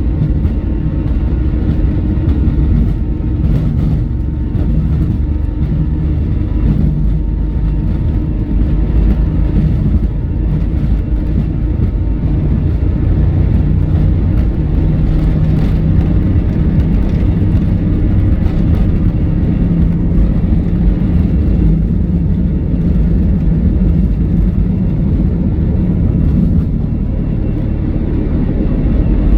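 Cabin noise aboard an Airbus A321 airliner: a loud, steady low rumble of the jet engines and airflow.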